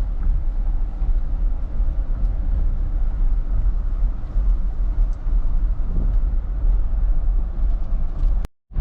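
Steady low rumble of road and engine noise inside a moving pickup truck's cab. The sound cuts out completely for a moment near the end.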